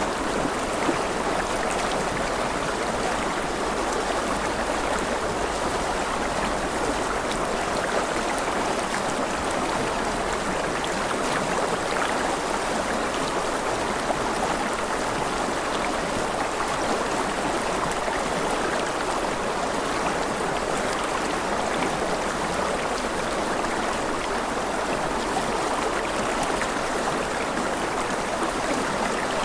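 Steady running water, like a flowing stream, with faint scattered drips over an even rush.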